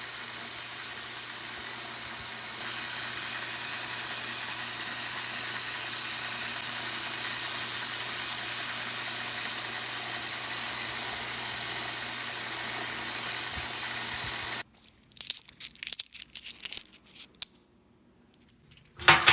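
Bench wire wheel running, its motor humming steadily while it brushes rust off steel bolts with a harsh hiss. It stops abruptly about three-quarters of the way in, followed by small metal parts clinking and clattering together.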